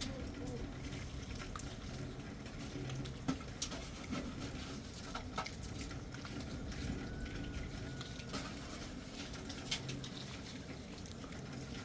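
Steady patter of water, with a few sharp taps scattered through it.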